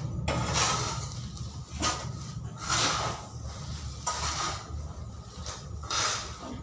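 A series of short scraping strokes, roughly one every second or so, over a steady low background rumble.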